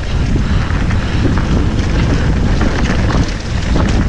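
Loud wind buffeting the microphone of a camera on a moving mountain bike, over a steady low rumble of the bike rolling along a dirt trail, with scattered small knocks.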